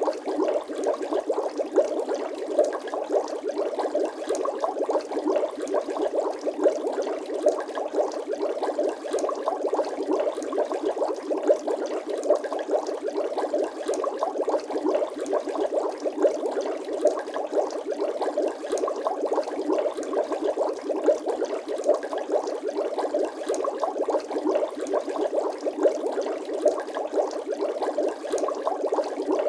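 Bubble sound effect: a continuous, even stream of quick liquid bubbling and popping, like water bubbling steadily.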